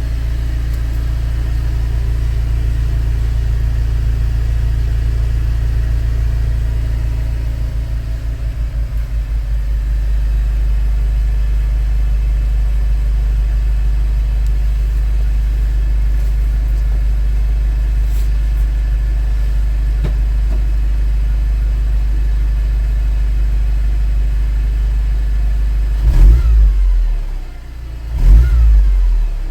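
A Mercedes-Benz W204 C200's engine and exhaust idling with a steady low drone. Near the end it is revved sharply about three times in quick blips.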